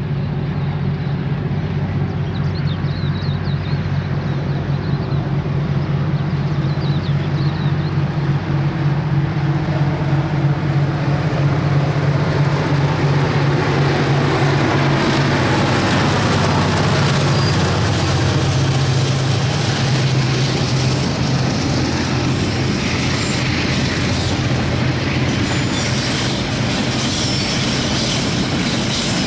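Two KiwiRail diesel-electric freight locomotives, a DFB and a DXB, working under power as they approach and pass. Their low engine drone grows to a peak and drops in pitch as they go by. Container wagons then roll past with wheel clatter and some squeal.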